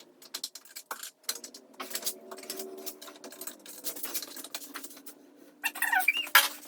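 Scattered sharp clicks and knocks of bike parts and hardware being handled during disassembly, with a faint steady hum from about a second in and a busier, louder patch near the end.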